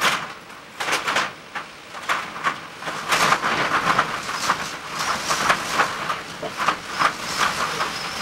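Typhoon wind and driving rain, coming in irregular loud gusts that surge and fall every second or so.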